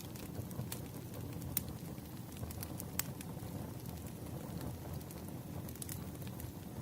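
Wood campfire burning: a steady low rumble of the flames with irregular sharp crackles and pops from the burning logs, a few louder snaps among them.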